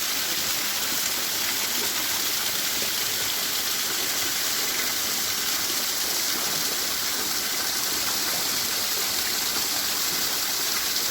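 Steady, even rush of running water, with no breaks or single events.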